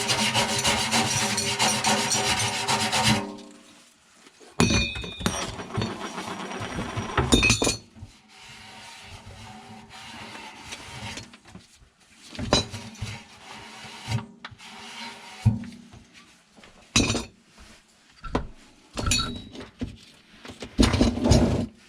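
Hand work on plumbing parts: about three seconds of continuous loud scraping or rasping that stops abruptly, then scattered knocks, clinks and short scrapes as tools and pipe pieces are handled.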